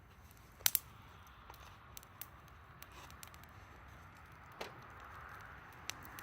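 Campfire crackling, with wood popping in sharp irregular snaps, a loud double pop about a second in, over a soft hiss that grows toward the end.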